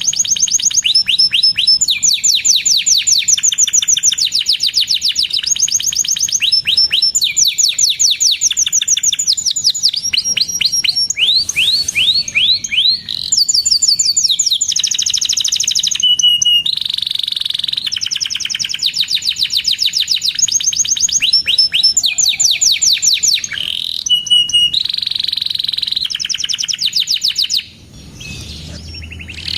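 Canary singing a long, fast song of rapid trills and repeated chirps, switching from one trill phrase to the next every second or two, with a short break near the end.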